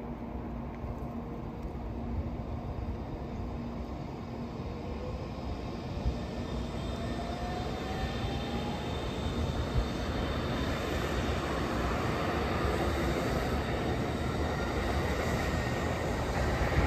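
N700-series Shinkansen train running past slowly and gathering speed, a steady rumble of wheels and running gear that grows louder, with an electric traction-motor whine rising in pitch as it accelerates.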